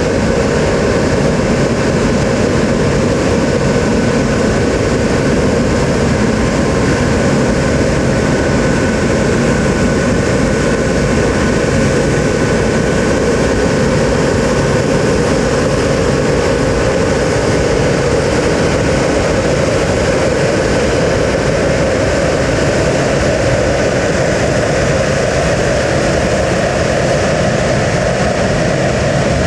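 Jet airliner engines running steadily: a constant loud noise with a faint high whine held at one pitch throughout.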